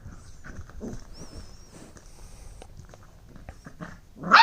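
Labrador puppy mouthing and chewing: soft scattered clicks and rustles, with a louder sound right at the end.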